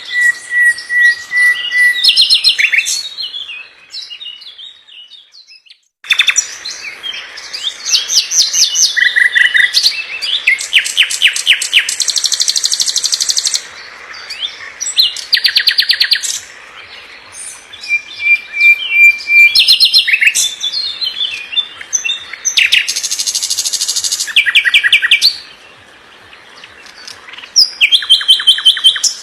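Sikatan londo song: dense, rapid phrases of fast trills and rattling note series mixed with short steady whistles. A brief silence falls about five seconds in, and there is a quieter pause near the end.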